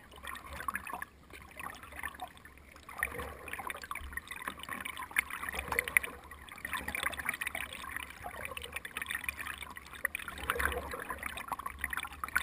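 Water splashing, trickling and lapping around a kayak's hull as it moves.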